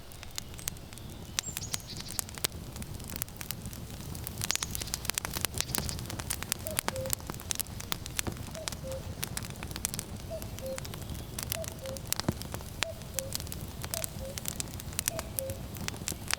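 Firewood burning with dense crackles and sharp pops over a low wind rumble. From about six and a half seconds in, a common cuckoo calls its falling two-note "cuck-oo" about seven times.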